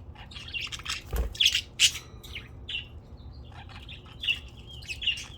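A small flock of pet budgerigars chirping and chattering, with quick overlapping calls and squawks. A single low thump comes about a second in.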